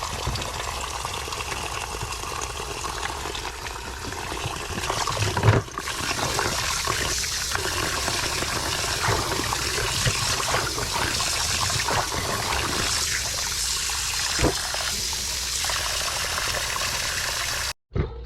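Steady sizzling and crackling from a jerk-chicken grill over open flames, with a louder knock about five and a half seconds in. The sound cuts off abruptly just before the end.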